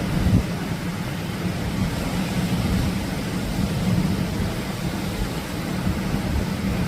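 Atlantic surf and wind, a steady even rush of noise with a heavy low rumble.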